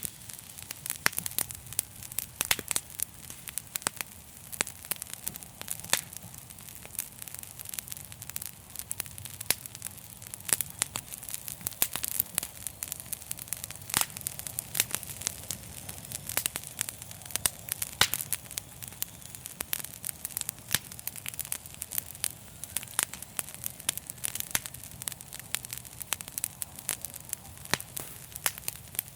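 Wood fire burning with dense, irregular crackles and pops, several a second, over a steady low rumble of the flames.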